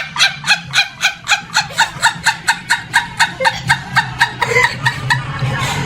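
Rapid, evenly spaced squawking calls like a fowl's, about five a second, over a low steady hum; the calls fade in the last two seconds.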